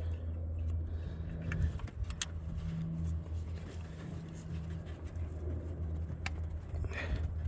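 Ford Ranger 3.0 L V6 idling steadily with a misfire, which the owner suspects is in cylinder 3. A few sharp clicks are heard over the idle.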